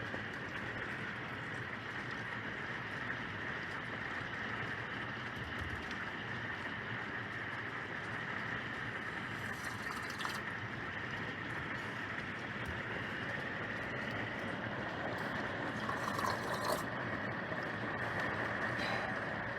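Rain falling steadily, an even hiss, with a couple of brief louder sounds about halfway through and again near the end.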